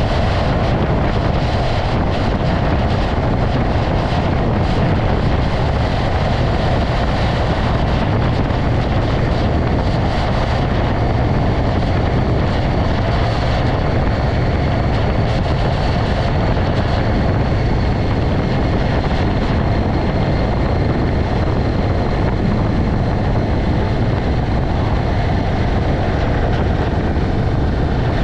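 Motorcycle underway at a steady speed, the engine running evenly under a constant rush of wind on the microphone.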